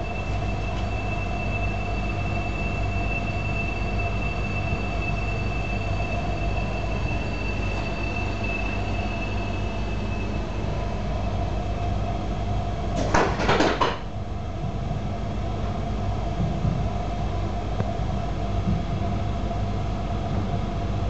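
Interior running noise of a CRH high-speed train in motion: a steady low rumble with a faint steady tone and a faint high whine that fades out about halfway through. A brief louder rush comes about thirteen seconds in.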